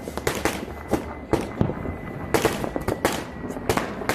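Firecrackers and fireworks going off: many sharp bangs and cracks in irregular quick succession, a few louder blasts with a short hissing tail.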